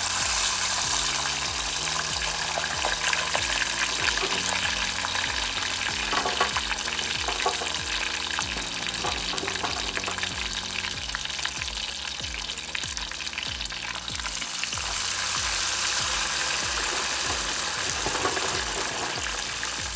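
Frozen french fries frying in hot oil: a steady sizzle with fine crackling, under quieter background music.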